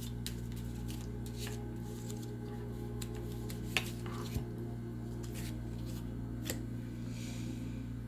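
Tarot cards being handled on a table: a few light, scattered clicks and taps over a steady low hum.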